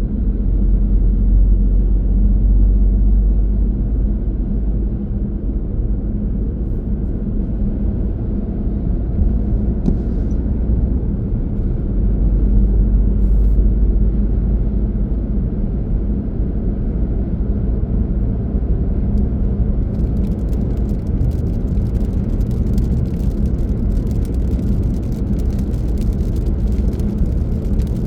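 Car driving on a road: steady low rumble of engine and tyre noise. A light, fine crackle joins in about two-thirds of the way through.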